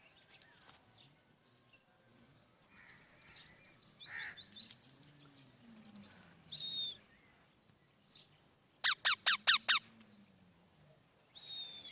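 Rose-ringed parakeets calling: scattered high chirps and a fast run of chirps, then about nine seconds in a burst of five loud, shrill calls in quick succession, each sweeping downward in pitch.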